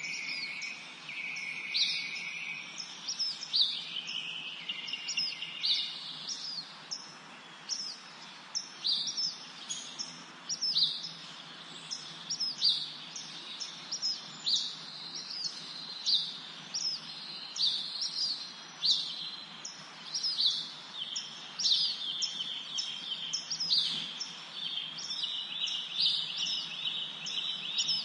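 Several songbirds singing and chirping in a spring forest: short high whistled notes that sweep downward, repeated about once or twice a second, mixed with longer buzzy trills, over a faint steady background hiss.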